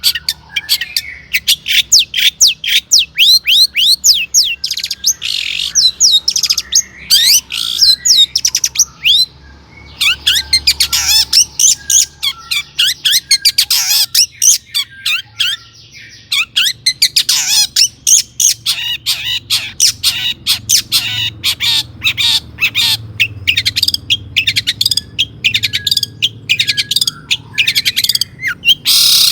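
Long-tailed shrike singing energetically: a rapid, continuous chatter of harsh scratchy notes and quick downward-slurred whistles, broken by short pauses about nine seconds in and around the middle.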